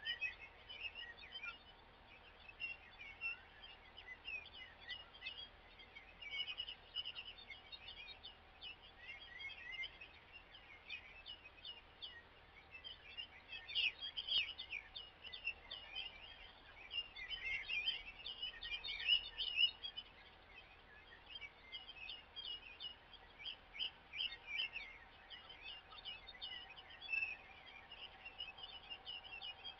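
Small songbirds chirping and singing, many short, quick high calls overlapping, busiest around the middle, over faint steady outdoor background noise.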